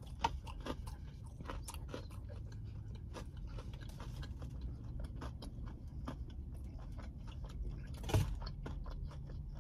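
A person chewing a bite of fried chicken dipped in barbecue sauce: small wet mouth clicks throughout, with one louder click about eight seconds in.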